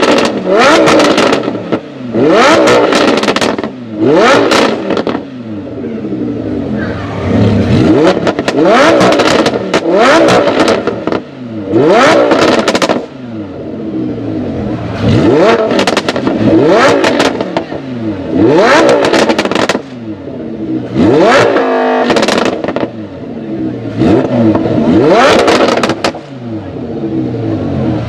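Lamborghini Huracán LP610-4's naturally aspirated V10, breathing through an aftermarket Frequency Intelligent exhaust, revved over and over while standing. Each rev rises sharply and drops back, about one every one to two seconds, and the revs are very loud.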